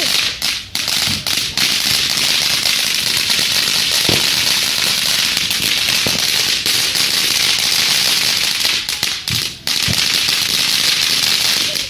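A lit ground firework, most likely a fountain, hissing steadily and loudly as it sprays sparks, with brief flickers in the spray. The hiss cuts out abruptly at the very end.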